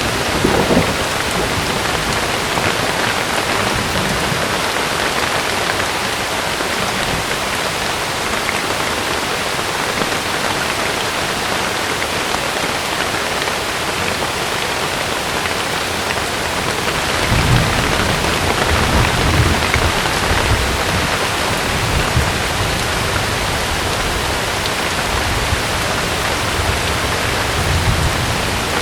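Steady heavy rain falling on a camping tent. About two-thirds of the way through, a low rumble rises under the rain for a few seconds, and it comes back briefly near the end.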